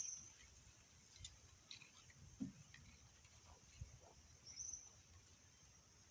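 Rural outdoor background with two short high chirps, one right at the start and one past the middle, over scattered faint clicks and rustling.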